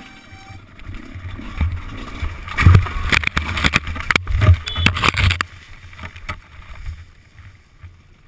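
Suzuki RM 125 two-stroke dirt bike crashing, its front end washing out in loose sand: a run of heavy thumps and knocks over about four seconds as the bike and rider go down and tumble, then the noise dies away.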